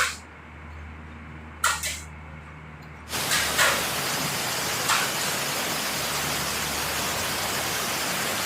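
A couple of sharp clicks over a quiet background, then about three seconds in the steady hiss of heavy rain comes in abruptly and holds, with an occasional sharper tick.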